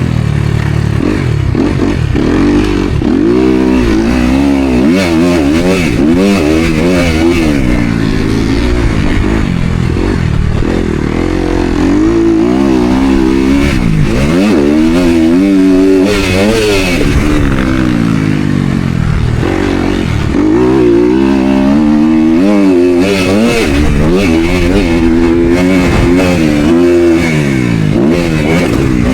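Motocross dirt bike engine racing under hard throttle, its pitch climbing and dropping every second or two as the throttle is opened and closed through the gears.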